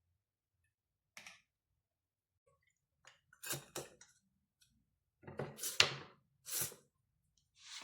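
A handful of short, separate clicks and clatters of objects being handled, about five in all, the loudest a sharp click a little before the six-second mark.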